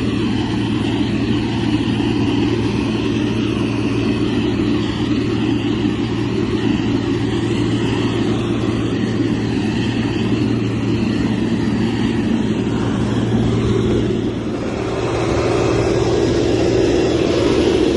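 Heavy construction machine's diesel engine running steadily under work. The sound dips briefly about 14 seconds in, then settles into a steadier, slightly higher hum.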